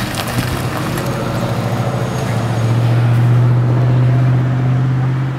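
Heavy truck diesel engine passing close by: a steady low drone that swells to its loudest about three and a half seconds in, then eases off.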